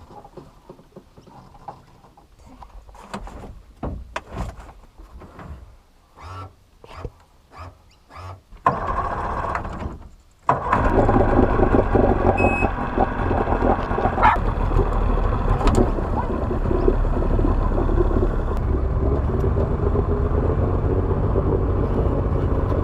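Scattered knocks and handling clatter, then about nine seconds in a 50 hp Johnson two-stroke outboard motor gives a short loud burst, stops for a moment, and then runs steadily and loudly for the rest.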